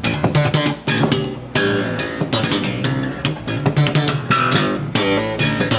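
Grinder Spider Bass, a braced acoustic-bodied bass, played solo: a quick run of plucked notes and chords, each attack sharp and ringing on briefly.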